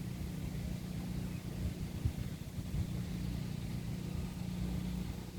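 An engine running steadily at an even speed, a low, unchanging hum.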